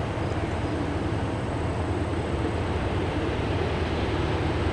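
Distant train approaching: a steady low rumble that grows slightly louder.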